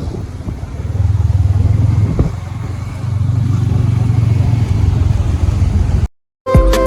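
Motorcycle engine running while riding, with wind noise on the microphone. The sound cuts off abruptly about six seconds in, and music starts just after.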